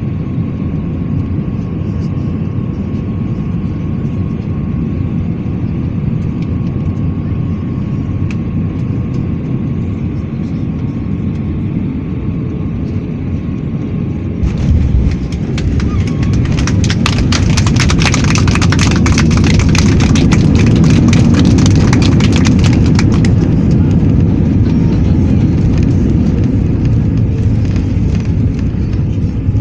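Passenger airliner landing, heard from inside the cabin: a steady engine and airflow drone with a faint thin whine, then touchdown about halfway through with a sudden jolt and rumble. The engines then roar up for several seconds with heavy rattling, typical of reverse thrust and braking on the runway, before easing back as the aircraft slows.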